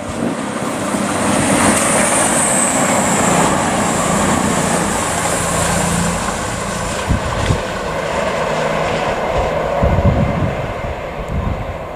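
A CrossCountry Voyager diesel-electric multiple unit running past on the main line: engines and wheels make a loud, steady noise, with a high whine that falls slightly about two to three seconds in.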